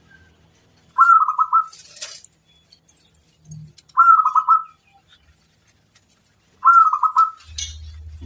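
Zebra dove (perkutut) cooing: three short, rapidly pulsed cooing phrases about three seconds apart. A brief low hum comes in near the end.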